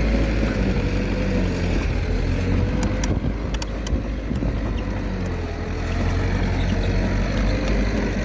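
Komatsu D21A bulldozer's diesel engine running steadily, with a faint wavering whine over it and a few sharp clicks about three seconds in.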